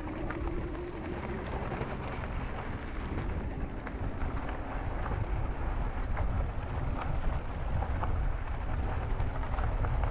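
Wind rumbling on the microphone and tyre noise from an e-bike rolling along a trail, with scattered small clicks and ticks from the bike and the ground. A faint steady hum, likely the motor, fades out about a second in.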